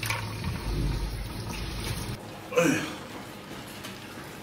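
Chicken feet going into a bowl of iced water: water splashing and ice shifting for about two seconds. About two and a half seconds in comes a brief, louder sound.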